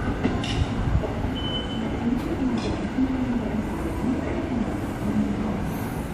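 Electric commuter train running on the track, a steady rumble with a wavering low tone. A brief thin high squeal comes about a second and a half in.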